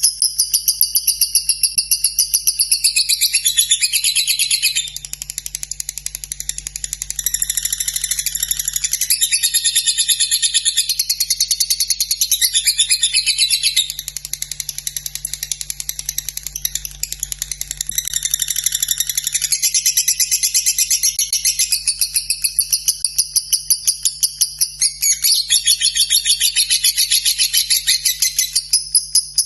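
Lovebird singing a long unbroken ngekek: a continuous stream of very fast, shrill chirps that shifts in pitch from phrase to phrase and hardly pauses.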